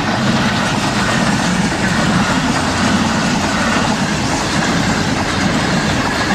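Pakistan Railways passenger coaches passing at speed at close range: a loud, steady noise of steel wheels running on the rails.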